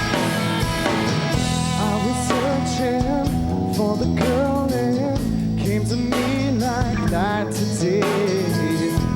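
Pop-rock band playing a song on guitars and drum kit, with a wavering sung lead line coming in about two seconds in.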